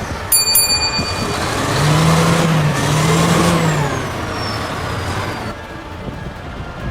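Heavy truck running on the road, with a brief high-pitched squeal near the start and a louder stretch in the middle carrying a low steady tone in two parts. The sound changes abruptly about five and a half seconds in.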